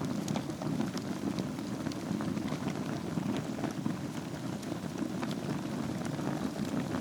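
Wood fire burning in a fireplace over glowing embers: a steady low rumble of flames with scattered sharp crackles and pops.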